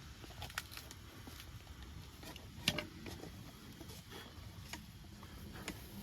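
Scattered faint clicks and crunches over low background noise, with one sharper crack about two and a half seconds in.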